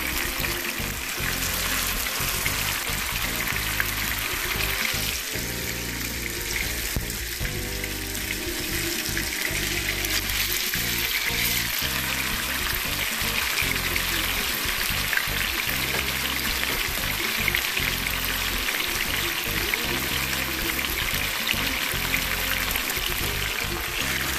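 Garlic and pepper frying in hot cooking oil, a steady sizzle, with background music playing throughout.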